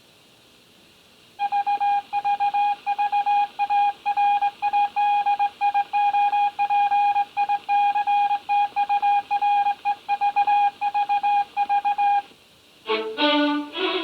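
A single steady high-pitched tone, interrupted by many brief dropouts, sounds for about eleven seconds after a moment of near silence. It stops, and near the end film-score music with violin begins.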